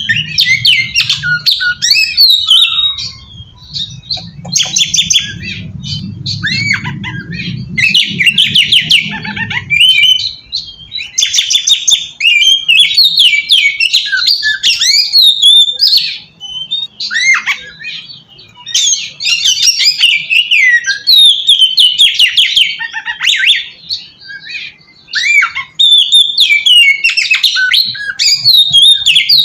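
Oriental magpie-robin (kacer) singing loudly: a fast, varied run of chattering phrases and rapid trills, broken by short pauses. A low hum sits underneath for about the first third.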